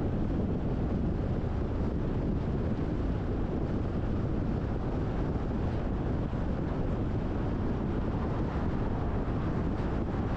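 Steady low road and wind noise of a car driving at a constant speed, even throughout with no distinct events.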